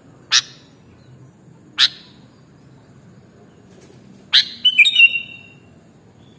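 Sooty-headed bulbul (kutilang) calling: two short, sharp notes about a second and a half apart, then a longer chattering phrase ending in whistled notes about four seconds in.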